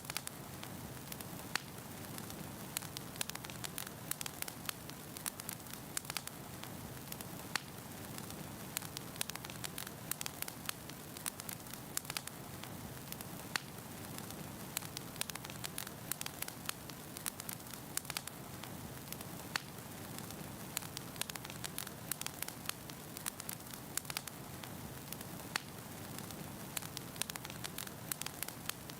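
Wood fire burning in a fireplace: frequent sharp pops and crackles of burning firewood over a steady low hiss.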